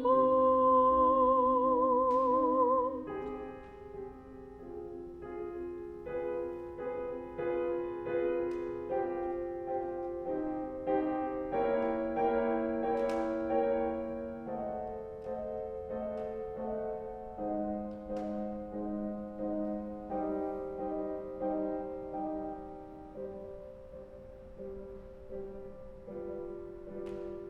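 A solo singer holds a final note with vibrato over piano for about three seconds. The piano then plays on alone, a slow passage of sustained chords.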